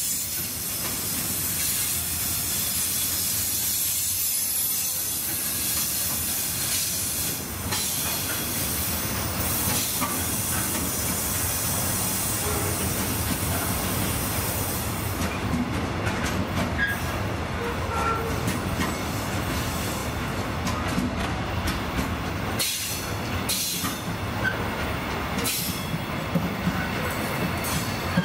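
Container freight train's loaded flat wagons rolling past: a steady rumble of wheels on rail with hiss. In the second half come brief wheel squeals and a few knocks.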